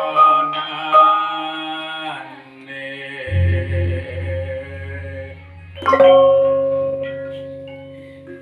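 Javanese gamelan ensemble playing: struck bronze metallophones ringing in steady level tones. A deep gong-like stroke comes in about three seconds in, and a loud stroke near six seconds rings on and slowly fades.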